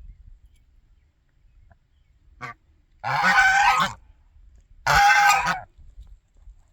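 Goose honking: two loud, drawn-out honks about two seconds apart, after a short, quieter call.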